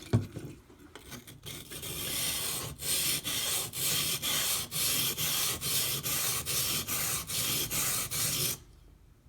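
Steel knife blade stroked back and forth on a coarse 220-grit water stone, a gritty scraping at about two strokes a second that stops abruptly near the end. The soft stone is shedding grit quickly into a slurry under the blade.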